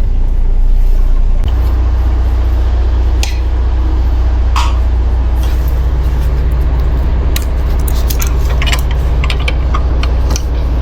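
Heavy truck's diesel engine running with a low, steady drone that steps up about a second and a half in. From about three seconds in, scattered sharp clicks and rattles come over it.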